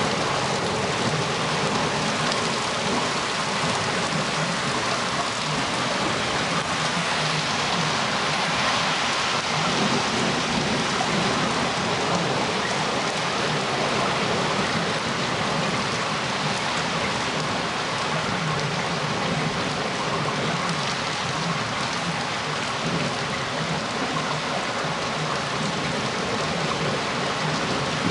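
Heavy rain falling steadily in a thunderstorm, an even hiss of rain with no sharp thunderclap.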